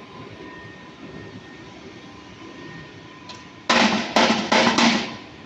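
A steady machine hum with a faint high whine, then about three and a half seconds in four loud bangs in quick succession, each lasting about a third of a second.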